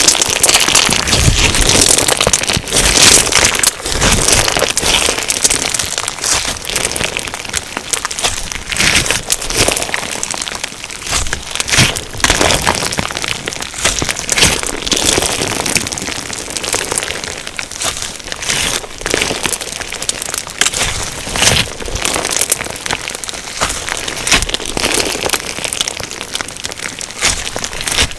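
Crunchy slime packed with sugar beads being squeezed and pressed by hand, giving a dense, continuous crackling and popping.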